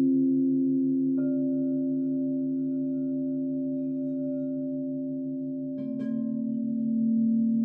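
Singing bowls ringing: several long tones overlap and slowly fade, the lowest one wavering in a steady pulse. One bowl is struck softly about a second in, and another just before six seconds in, adding a lower note.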